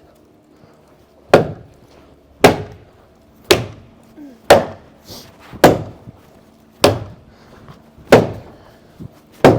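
High-lift farm jack being pumped by its handle, a sharp metal clack as the jack climbs a notch on each stroke, eight times at about one a second, lifting the barn's post.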